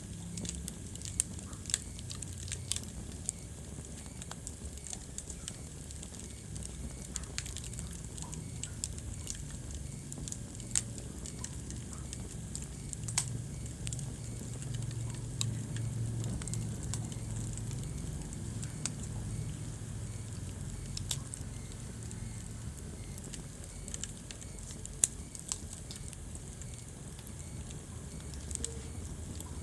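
Wood fire crackling in a fireplace: a steady low rumble of burning with scattered sharp pops and snaps, a few of them louder than the rest.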